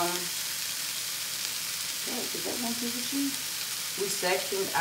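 Shaved beef and sliced onions sizzling steadily on an electric griddle.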